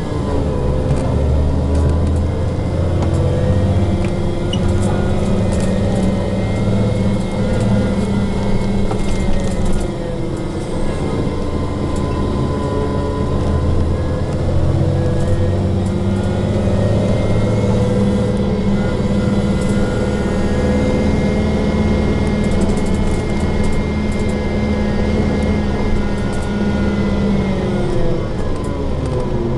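King Long KL6112U1 city bus heard from inside while driving: the engine and drivetrain run with a low rumble and several whining tones that rise and fall together as the bus speeds up and slows down. This is the bus's severe abnormal noise.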